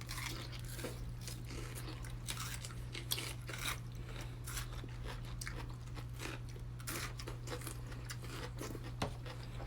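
Watermelon being bitten and chewed fast: irregular crisp, wet crunches as the flesh is eaten down toward the white rind.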